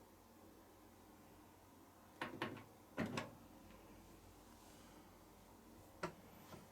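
A few sharp clicks about two seconds in, a louder knock a second later, and another click near the end, from the washing machine being handled: its door, drawer or control buttons.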